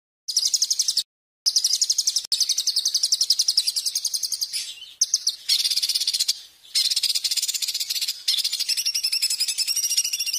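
A small songbird's shrill, very fast chattering trill, the same high note repeated many times a second in long bursts, with sudden cut-offs about a second in and around six seconds in, as in an edited, looped tutoring recording for songbirds.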